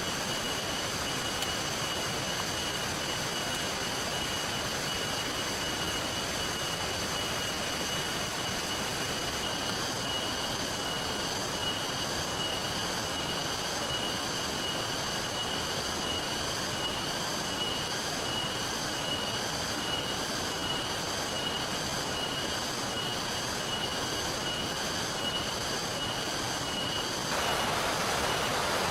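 Steady rain and flowing river water, an even wash of noise, with a high pulsing trill over it. The water noise grows fuller and louder near the end.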